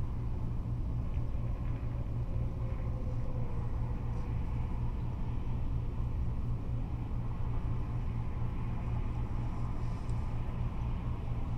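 Steady freeway traffic noise from passing cars and trucks: a continuous deep rumble with tyre hiss on top.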